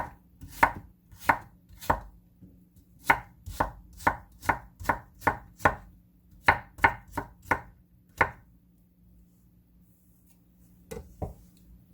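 Kitchen knife chopping on a cutting board, julienning carrot into thin strips: evenly spaced strokes that quicken to about three a second, then stop about two-thirds of the way through, followed by two light taps near the end.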